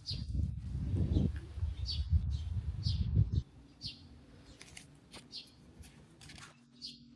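A bird repeating a short high chirp about once a second. A low rumble sits under the first three and a half seconds, then stops.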